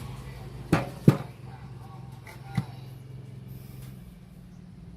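Three sharp knocks: two close together about a second in and a smaller one a little later, over a steady low hum.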